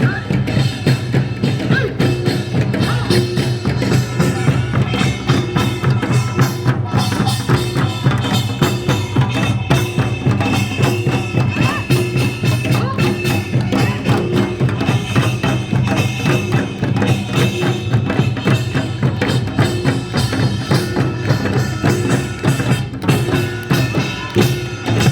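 Traditional Korean folk music with dense, fast drumming and percussion, played continuously.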